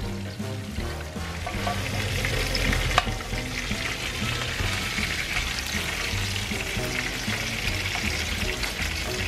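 Breaded shrimp sizzling and crackling in hot oil in a frying pan, growing louder after about a second and a half. A single sharp clack of metal tongs sounds about three seconds in. Background music plays underneath.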